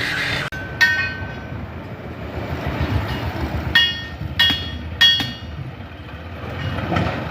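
Sharp metal-on-metal clanks, each ringing briefly, about four in all, over a low engine rumble.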